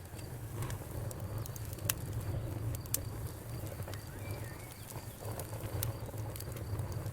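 Wood fire in a fireplace crackling, with scattered sharp pops and snaps over a steady low rumble; the two loudest pops come about two and three seconds in.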